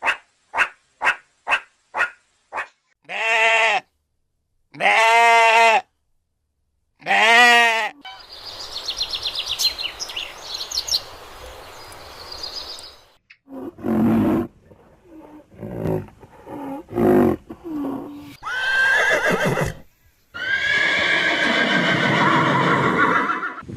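A sequence of different farm animal calls. It opens with a run of short calls, about three a second, followed by three long, pitched calls a second or two apart. After that comes a noisier stretch with high chirps, then a mix of short and long calls.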